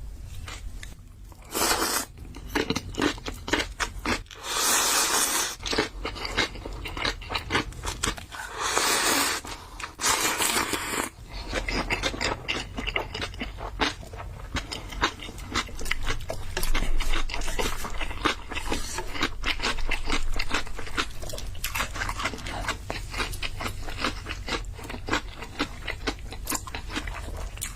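Close-miked eating of spicy noodles: four loud slurps of about a second each in the first eleven seconds, then steady wet chewing full of small crunchy clicks.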